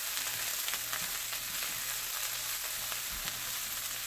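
Frozen corn kernels and smoked turkey sausage frying in a skillet, a steady high sizzle with faint small crackles, as a silicone spatula stirs through the pan. The corn is browning on the bottom of the pan.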